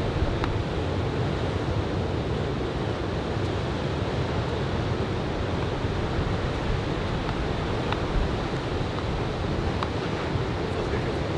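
Ocean surf from a head-high typhoon swell breaking and washing steadily onto the beach, with wind rumbling on the microphone.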